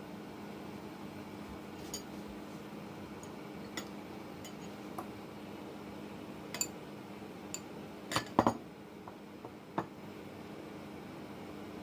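Kitchen dishes and utensils clinking: scattered light clinks, with a louder cluster of knocks about eight seconds in, over a steady low hum.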